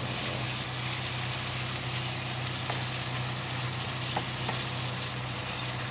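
Sliced steak, peppers and onions sizzling in a nonstick skillet as a spatula stirs them, with a few light clicks of the spatula against the pan. A steady low hum runs underneath.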